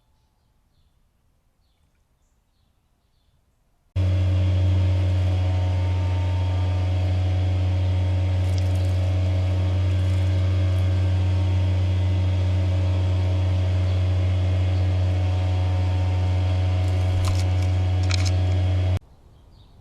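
A loud, steady, low machine hum starts suddenly about four seconds in. It holds an unchanging pitch and cuts off abruptly near the end, with a few sharp clicks shortly before it stops.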